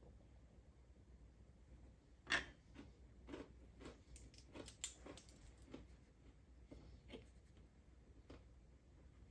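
Quiet room with a string of light, irregular clicks and taps, about a dozen over several seconds, the loudest one about two seconds in.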